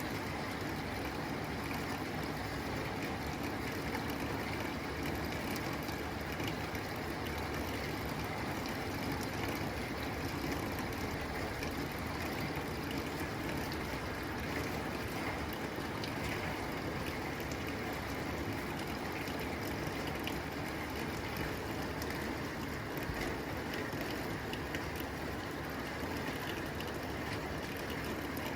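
Steady rain pattering on a tin roof, a dense even hiss with many small drop ticks.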